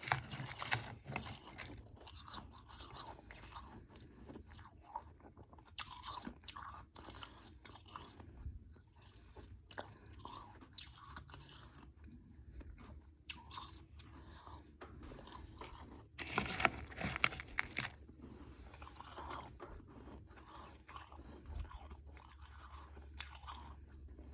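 A person chewing and crunching mouthfuls of powdery frozen ice with some harder chunks, close to the microphone, in irregular bites. A louder run of crunching comes about two-thirds of the way through.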